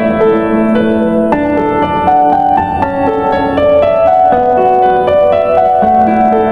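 Background piano music: a gentle melody of steady, changing notes over sustained chords.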